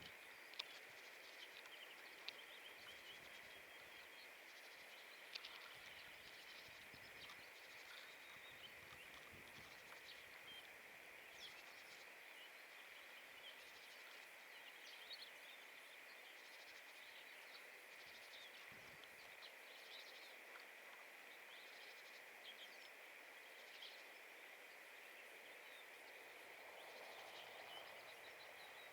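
Faint, scattered short calls of small wild birds over a steady faint high hiss, near silence overall.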